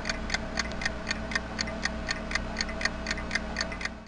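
Clock-like ticking sound effect, even sharp ticks at about four to five a second over a steady low hum, standing for ticking sand; it stops abruptly at the end.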